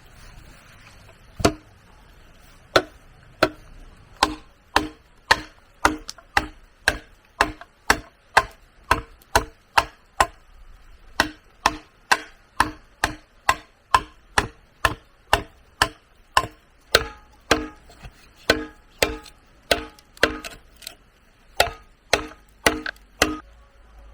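Repeated chopping blows on bamboo, steady at about two a second, each strike giving a short ringing tone. The blows stop shortly before the end.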